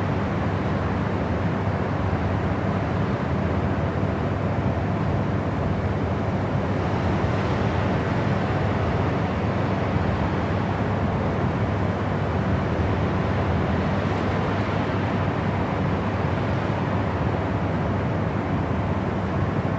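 Steady white-noise sleep sound: an even, unbroken hiss with a deep low rumble and a softer top, with no changes.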